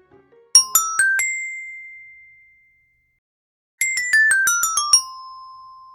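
Bright chime jingle: four struck notes rising in pitch, the last one ringing out, then a quick run of about eight notes stepping down, ending on a lower note that rings out.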